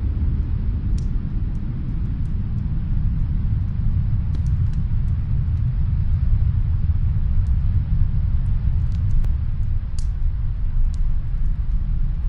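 Snowstorm wind making a steady, deep rumble, with a few faint, sharp crackles from a wood fire scattered through it, about a second in, twice around four and a half seconds, and again near seven and a half, nine, ten and eleven seconds.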